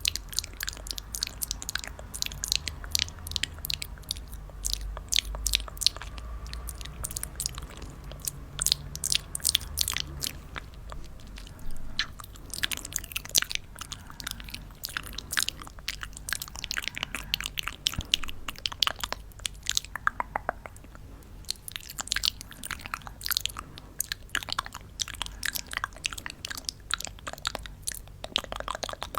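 Close-miked crisp crunching and crackling: a dense, irregular run of sharp clicks and crackles.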